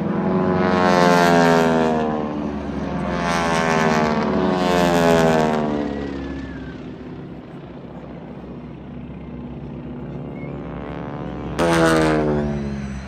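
Propeller aircraft with big Pratt & Whitney radial engines flying low past one after another. Each pass has a note that drops in pitch as it goes by: two loud passes in the first half, then a sudden close one near the end.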